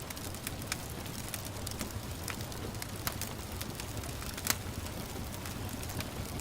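Wood fire crackling with irregular sharp pops, the loudest about four and a half seconds in, over a steady hiss of gentle rain and a low rumble.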